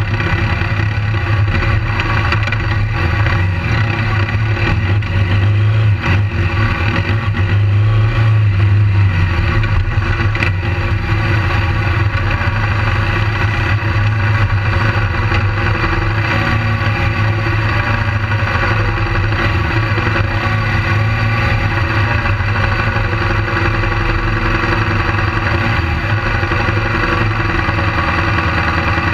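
BMW GS adventure motorcycle's engine running at low speed under a bike-mounted camera, a little louder in the first third, then steady.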